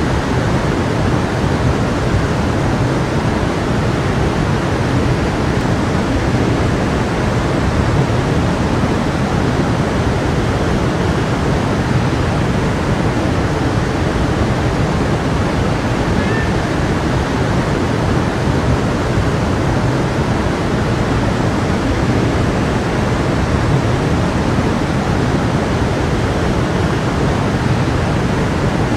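Small stream flowing, a steady, even rushing of water with no change.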